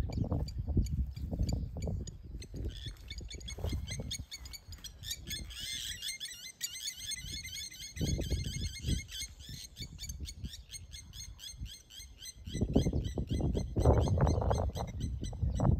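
Bird song in the bush: a fast run of high, evenly repeated chirps, several notes a second. It builds a few seconds in and fades near the end. Bursts of low rumbling noise come and go under it and are loudest near the end.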